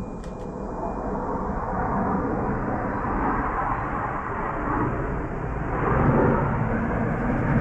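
Airshow aircraft flying over, their engines a steady noisy rush without a clear pitch that swells about six seconds in.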